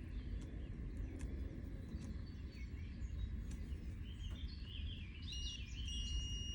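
A voltmeter's continuity beeper sounds briefly about five seconds in, then gives a steady high beep: the switch's contacts are now connected in this selector position. Birds chirp throughout over a low background rumble.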